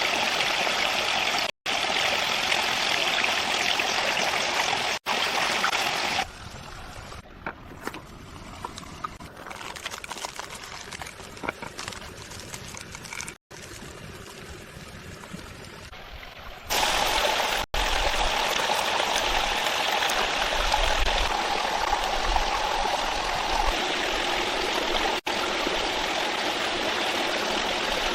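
Flowing stream water, a steady rush that drops to a much quieter, thinner trickle for about ten seconds in the middle before the full rush returns. The sound cuts out for an instant several times.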